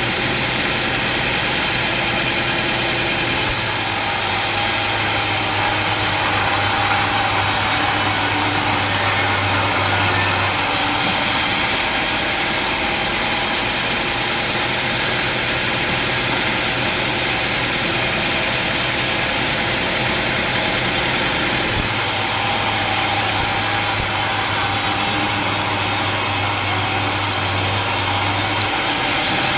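Sawmill machinery running steadily and loudly. The sound changes abruptly for two stretches of about seven seconds each, with more hiss and a deeper hum, then steps back.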